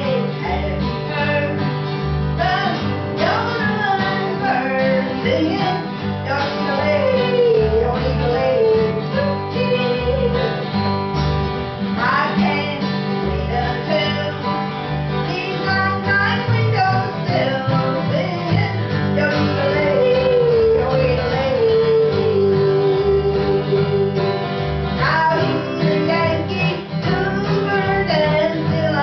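A traditional country band playing live: acoustic guitar strumming over stepping bass notes, with a lead melody that slides between notes.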